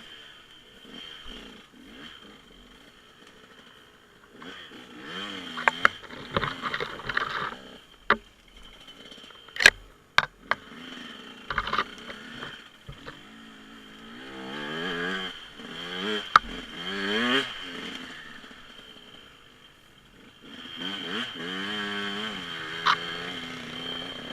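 Small dirt bike engine revving up and down several times, its pitch rising and falling, with a few sharp clicks and knocks in between.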